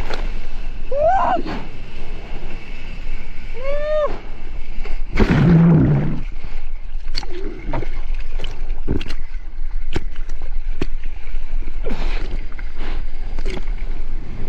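Sea water splashing and sloshing at the microphone in the surf, over a steady low rumble of wind and water. A louder rush of water comes about five seconds in, with sharp splashes and knocks throughout and two short rising-then-falling pitched calls about one and four seconds in.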